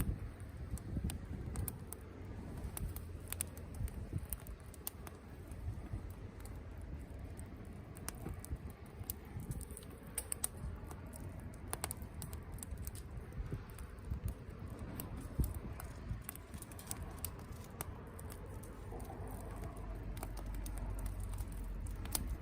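Wood campfire crackling, with irregular sharp pops and ticks over a low steady rumble.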